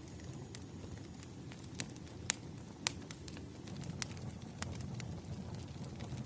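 Campfire crackling: a steady low rumble of burning wood with sharp, irregular pops and snaps, a few louder ones in the middle.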